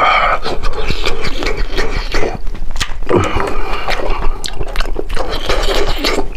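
Close-miked eating sounds: wet chewing, sucking and smacking as meat is gnawed off bones, with many small irregular clicks.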